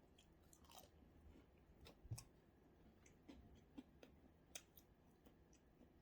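Faint chewing with scattered small clicks and taps of eating, and a slightly louder knock about two seconds in.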